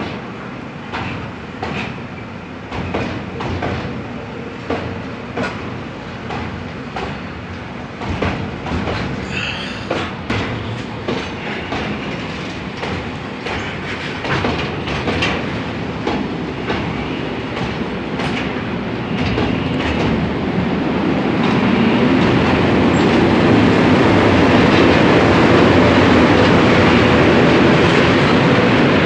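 Freight wagons rolling past close by, their wheels clacking over rail joints in a steady rhythm over a running rumble. About two-thirds of the way through the clacks fade into a louder, steady rushing rumble.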